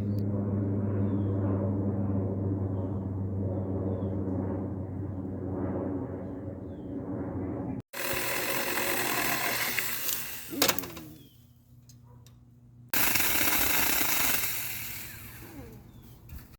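Saker mini electric chainsaw running with a steady motor hum. About halfway through the sound switches abruptly to a louder, hissing rush. After a sharp knock and a quieter lull, it rises again and then fades away.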